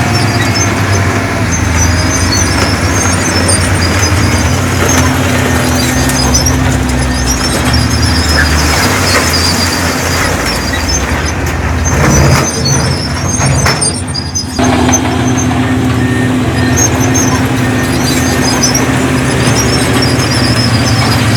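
Heavy diesel earthmoving machinery running steadily under load, with an intermittent high squeal over the engine drone. The sound dips and changes briefly a little past halfway, then settles back to a steady run.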